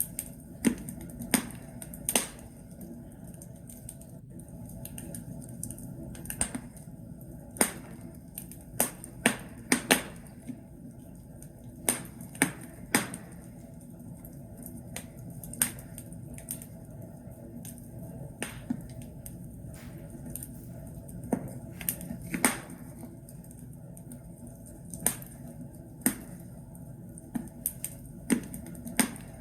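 Wood fire in a fireplace crackling: sharp, irregular pops and snaps from burning logs over a low steady rumble of the flames.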